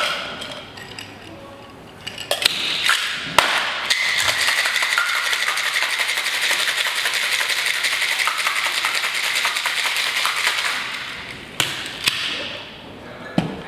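Ice cubes rattling hard and fast in a cocktail shaker for about seven seconds, starting a few seconds in. A few separate knocks of the shaker come before and after the shaking.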